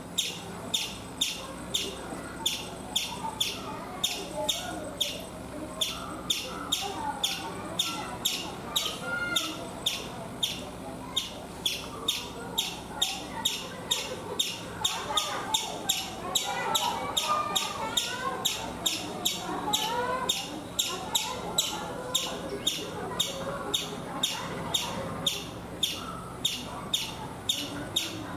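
Indian palm squirrel, the striped 'chipmunk' of Indian coconut trees, giving its sharp, high alarm chip over and over at a steady pace of about two calls a second. Softer warbling bird calls run underneath, busiest from about halfway through.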